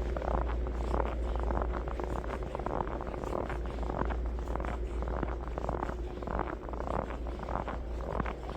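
Heavy lake-effect snow falling, a dense, irregular crackle of flakes striking close by, over a steady low rumble.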